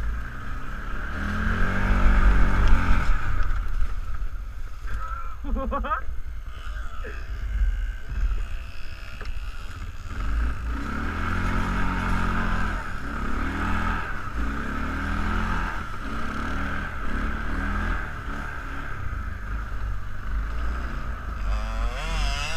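Kawasaki ATV engine running under way off-road, its note rising and falling as the throttle changes.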